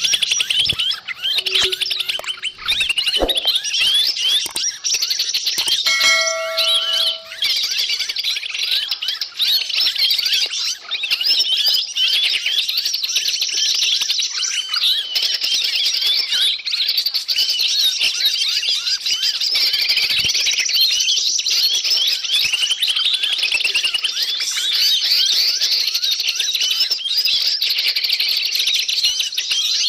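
Dense chorus of many small forest birds chirping and chattering at once, a continuous high-pitched racket used as a bird-lure call to attract wild birds. A short steady whistled note sounds briefly about 6 seconds in.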